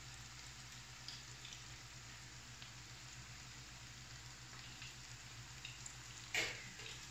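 Hash brown patties of grated potato, egg and flour frying in hot oil in a pan: a faint steady sizzle with scattered small pops, and a short louder burst of noise near the end.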